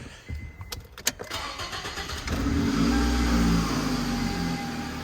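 2007 Toyota Camry's 2.4-litre four-cylinder engine being started with the exhaust downpipe off: a couple of clicks and about two seconds of starter cranking, then it catches, runs up briefly and settles to a steady idle. Even with the downpipe removed it is hardly any louder, which the mechanic takes as the sign of a blocked catalytic converter.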